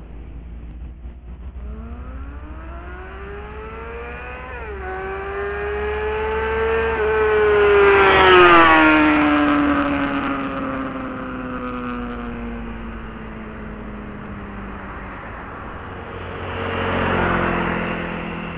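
Honda CBR600RR's inline-four engine through a Mugen slip-on exhaust, revving up with a drop in pitch about five seconds in like a gear change, loudest around eight seconds in, then falling in pitch and fading. A rushing swell of noise comes up near the end.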